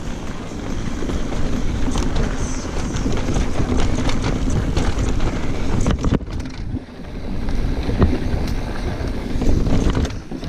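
Mountain bike riding down a dirt singletrack: wind rushing over the microphone, with tyre noise on dirt and rattling clicks from the bike over bumps. It eases briefly a little past halfway, then picks up again.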